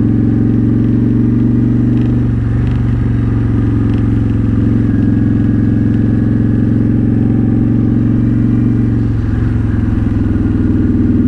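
Honda Shadow Spirit 750's V-twin engine running at low, steady revs through a Cobra Streetrod Slashdown exhaust, heard from on the bike. Its pitch shifts slightly about two seconds in and again near the end.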